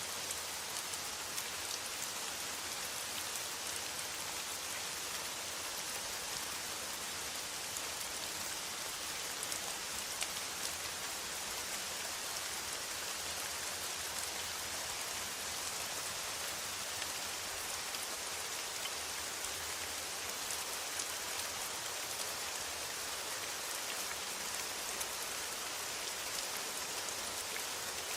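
Steady rain on a metal roof: an even hiss, strongest in the high range, with many small drop ticks.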